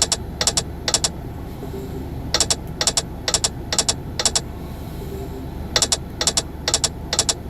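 Online slot game sound effects: the reels stop one after another with sharp double clicks, five per spin at about two a second, over three spins. A steady low hum of the game's background sits underneath.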